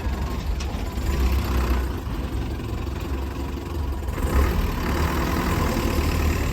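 Truck engine running at a steady idle, a continuous low rumble that grows slightly louder about two-thirds of the way in.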